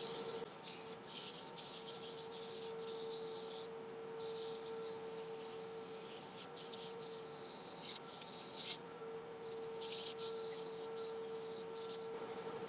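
Hand rubbing against an Iroko platter spinning on a wood lathe, burnishing citrus oil into the wood, in hissing stretches that stop and start. Under it is the steady hum of the running lathe.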